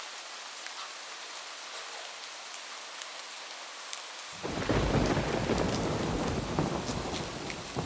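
Steady rain falling on a roof, with scattered sharp drop ticks. A little over four seconds in, a loud thunder rumble breaks in suddenly and keeps rolling, slowly easing toward the end.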